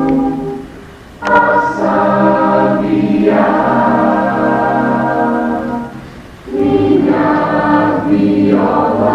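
Choir singing held chords, in phrases that break off briefly about a second in and again about six seconds in.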